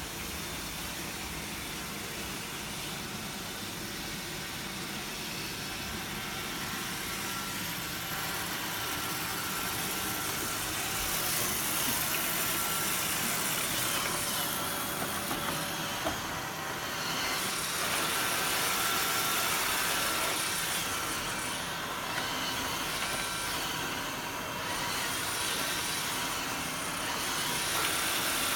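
Roomba 770 robot vacuum running: a steady motor whir with a faint steady whine, swelling and easing a little over time, and a single sharp click about halfway through.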